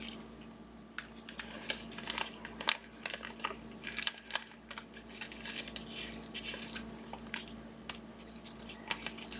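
Trading cards and their packaging being handled: a busy string of light crinkles, rustles and small clicks over a steady low hum.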